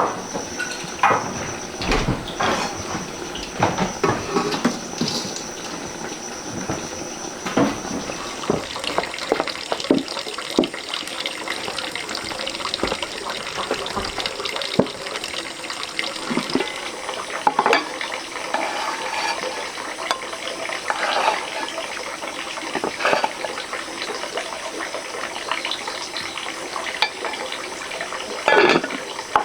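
Water running steadily, with scattered clinks and knocks of pots or utensils and a louder knock near the end.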